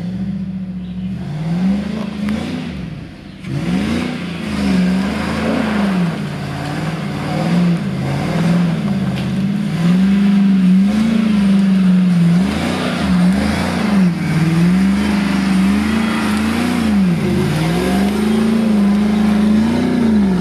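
Off-road Jeep's engine revving up and down again and again as it climbs a dirt hill under load, its pitch rising and falling every second or two.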